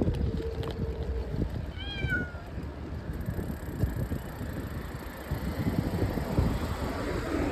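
A cat meows once, briefly, about two seconds in, over steady wind and road noise from the ride.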